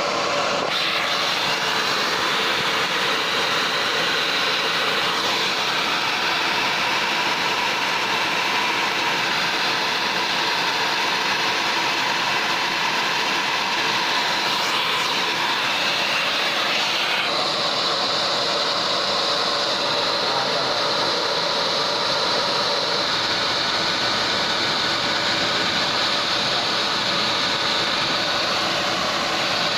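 Nissan Patrol ZD30 turbo-diesel engine running steadily, with a high whine over the engine noise. The tone shifts just over halfway through.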